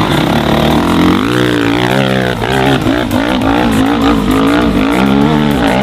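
Dirt bike engine revving hard, its pitch rising and falling over and over as the throttle is worked.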